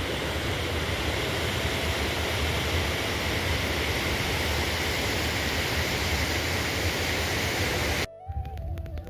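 Steady, loud rushing of water, an even roar with a deep rumble beneath, that starts abruptly and cuts off suddenly about eight seconds in.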